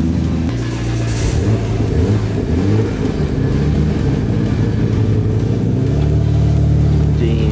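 Nissan Skyline R32 GT-R engine running and being revved up and back down several times, then held steadier near the end.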